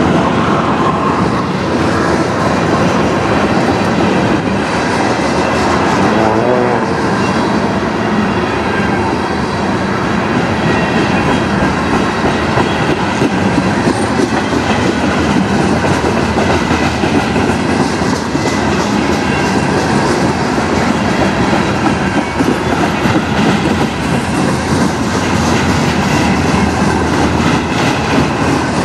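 Freight cars of a manifest train rolling past: steel wheels running on the rails with a steady, loud clickety-clack over the rail joints.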